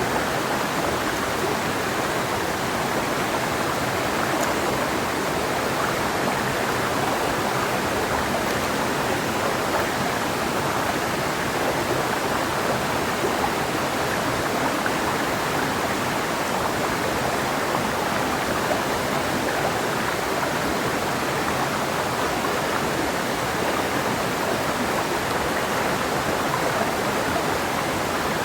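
Clear mountain river flowing over rocks, a steady, even rush of water that does not change.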